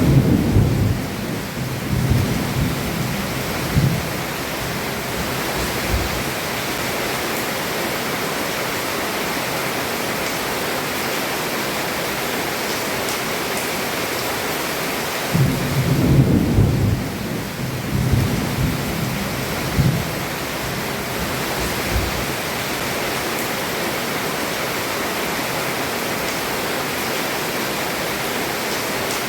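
Heavy rain falling steadily under a roof, with two rolls of thunder. One rumbles at the start for several seconds; the other comes about halfway through and rumbles for several seconds more.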